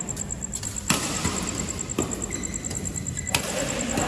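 Pickleball paddles striking the ball in a rally: a few sharp pops about a second apart, the loudest about a second in. A steady low rumble runs underneath.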